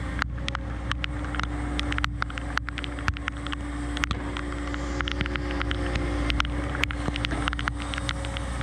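Cat 314E excavator's diesel engine running steadily, with many irregular sharp clicks and knocks over it.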